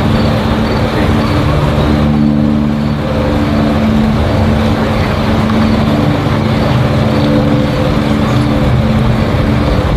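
Cessna 172's piston engine and propeller droning steadily as the light plane flies past at altitude: an even hum with several held tones.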